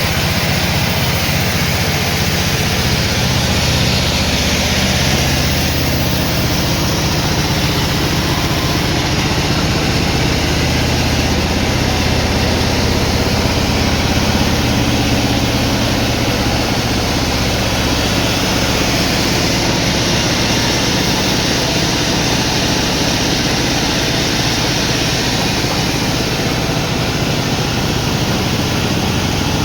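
Sawmill machinery running steadily: a constant low engine-like drone with a dense noise over it and no breaks.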